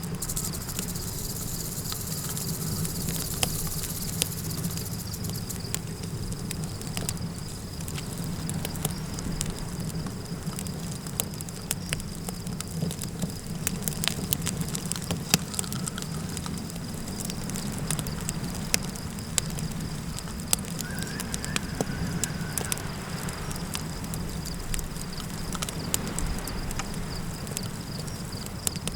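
Campfire crackling and popping with frequent sharp snaps over a steady low rumble of flames and wind. A steady high insect trill runs underneath, and a faint drawn-out wavering call rises about two-thirds of the way through.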